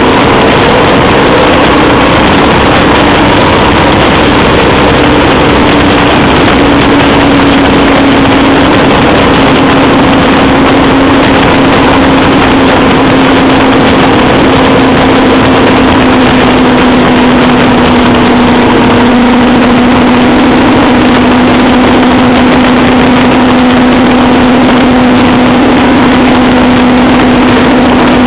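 Motorcycle engine running steadily at cruise, heard from the moving bike under a loud, constant rushing noise. Its tone sinks slightly and slowly.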